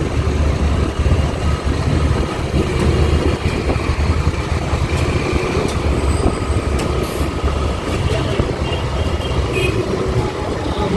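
Road traffic heard from a moving scooter: a steady, loud low rumble of wind and motor noise, with other vehicles passing.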